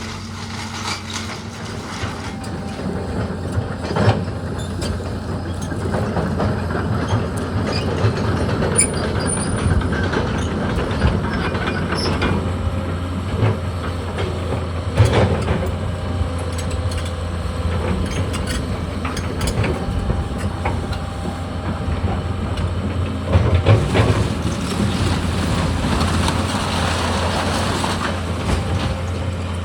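A heavy machine's engine running steadily under load, with scattered knocks and clunks, the loudest about four seconds in, around fifteen seconds in, and near twenty-four seconds in.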